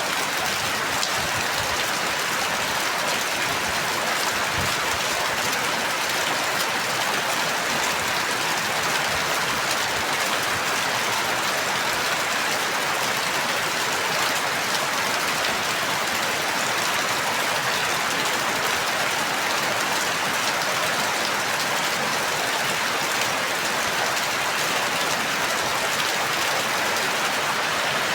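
Steady rain falling, an even hiss of countless drops with no change in strength.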